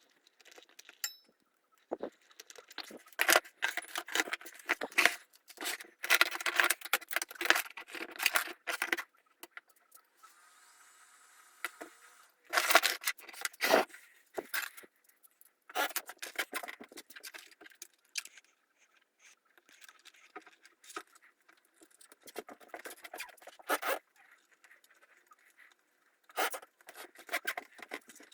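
Irregular clicking, clattering and scraping of small hard parts being handled, in uneven clusters. A faint steady hum comes in briefly about ten seconds in.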